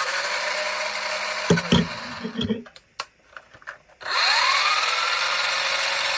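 Vintage RC car's small electric motor and gearbox whirring in two runs: first in low gear, stopping about two and a half seconds in, then in high gear from about four seconds in. The second run starts with a rising whine as the motor spins up. A few knocks come during the first run.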